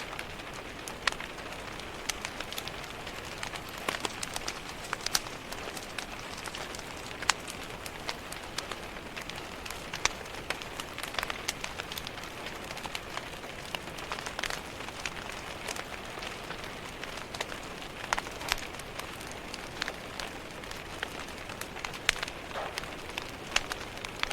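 Steady rain pattering on a window pane, mixed with the irregular crackles and sharp pops of a wood fire burning in a fireplace.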